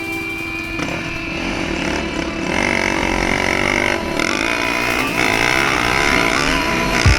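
Dirt bike engine revving, its pitch rising and falling, over steady held synth tones.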